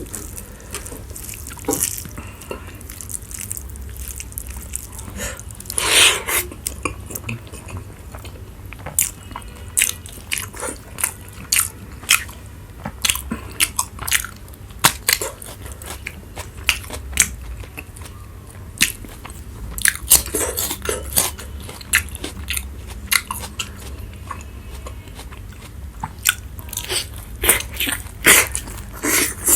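A person eating close to the microphone: irregular bites and chewing with crisp crunches, over a low steady hum.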